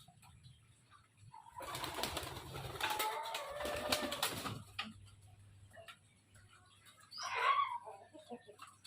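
Pigeons flapping their wings in a flurry lasting about three seconds, starting a second and a half in. A short higher-pitched call follows near the end.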